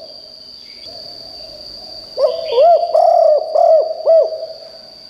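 Spotted dove cooing: about two seconds in, a loud phrase of roughly six short arched coos, each rising and falling in pitch. A steady thin high-pitched whine runs underneath throughout.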